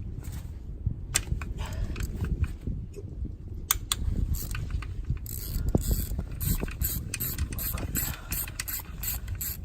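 Ratchet wrench working on bolts: a few separate sharp metal clicks, then a dense run of rapid ratcheting clicks in the second half.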